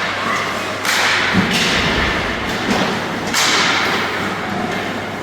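A few dull thumps and knocks from game play, each ringing on in a large, echoing hall, over a steady background hubbub.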